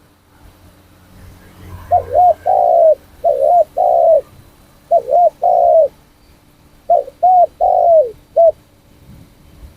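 Spotted dove cooing: three runs of coos, each a couple of short notes followed by a longer one, the last run ending with a note that falls.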